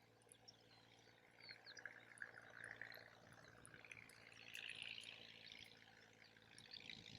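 Faint sound of water being poured into a container, the pour rising in pitch as the vessel fills, with small scattered clicks.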